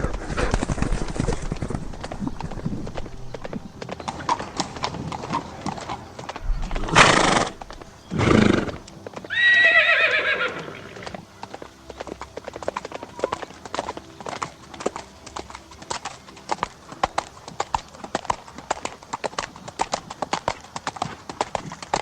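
Horse hooves clip-clopping rapidly throughout, with two loud bursts of breath about seven and eight seconds in and a horse neighing for about a second and a half just after.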